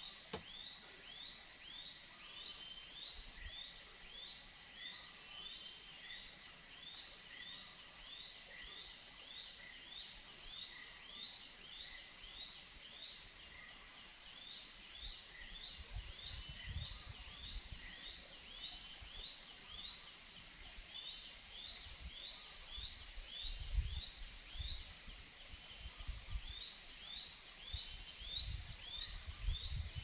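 Jungle ambience: a steady high insect drone, with a long run of short chirping calls repeating about twice a second and a faint higher note repeating more slowly. From about halfway in, low thumps and rumbles come and go.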